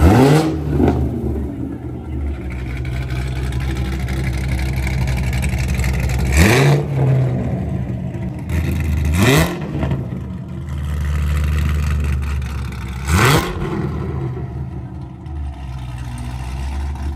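A car engine revved in four quick blips, each climbing sharply in pitch and falling back, with the engine running steadily in between.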